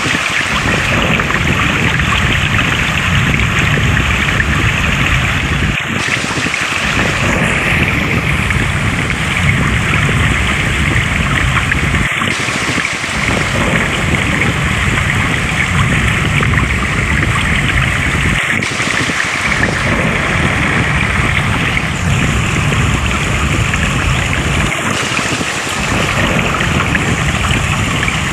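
Flowing water, a steady rushing and splashing, looped so that the same stretch repeats about every six seconds.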